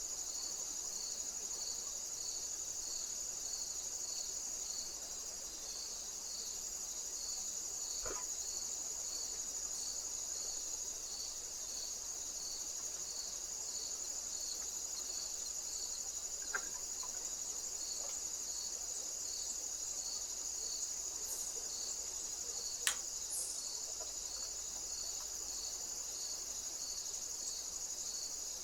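Crickets: a steady high trill with a second insect chirping evenly, about twice a second, just below it in pitch. A few faint clicks, the sharpest about 23 seconds in.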